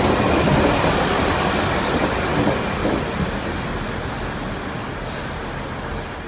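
Diesel multiple-unit passenger train running past close by, its wheel and running noise fading steadily as the last coach moves away.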